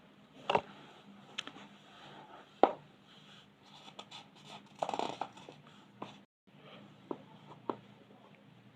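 Colouring on paper: scratchy strokes of a colouring pencil or pen, with several sharp clicks and taps in between and a denser patch of scratching about five seconds in.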